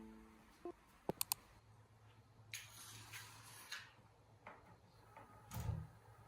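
Faint household handling sounds: three quick small clicks a little after a second in, a rustling hiss lasting about a second, then a soft thump near the end, like a cupboard door or drawer closing.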